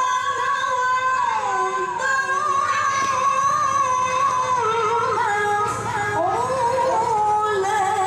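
A woman's high voice reciting the Quran in the melodic tilawah style: long held notes with wavering ornaments, gliding down and back up between phrases.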